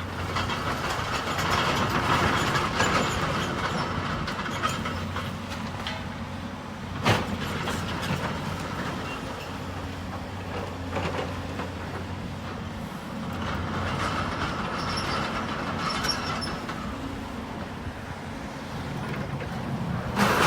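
A heavy demolition machine's engine running steadily while it crushes and drags building rubble, with clattering and scraping of broken debris. There is one sharp bang about seven seconds in.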